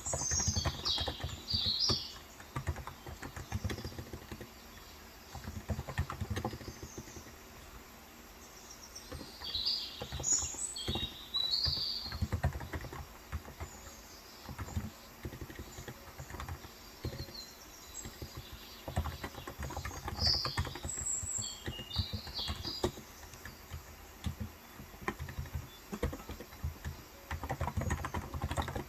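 Typing on a Cox Endeavor electro-capacitive (35 g, Topre-style) tenkeyless keyboard, a steady stream of soft keystrokes that thins out for a few seconds before the middle. Bird chirps come in short bursts over the typing: at the start, about a third of the way in, about two thirds of the way in and again at the end.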